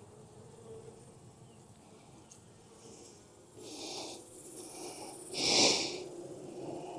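Two short hissing puffs of air, about four and five and a half seconds in, the second louder, over the steady low hum of honeybees at the open hive.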